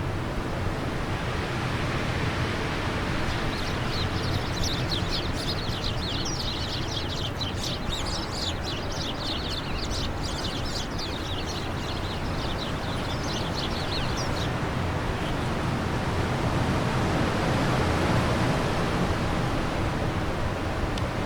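Steady wind blowing, swelling a little near the end, with birds singing a fast run of high chirps from a few seconds in until about two-thirds through.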